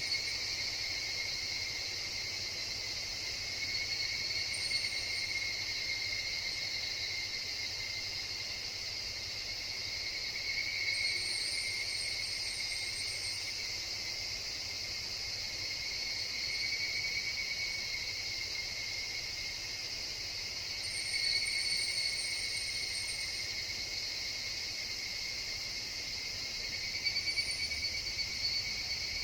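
Higurashi (evening cicadas) calling in chorus: a steady, high, shrill drone that swells and fades every few seconds.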